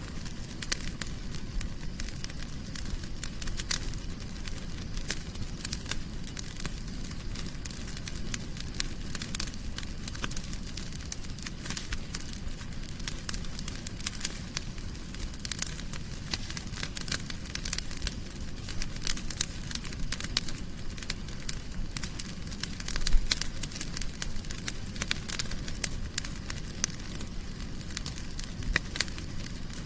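Wood fire burning in a fireplace, with a steady low rumble of flame and dense, irregular crackles and pops, one louder pop about 23 seconds in.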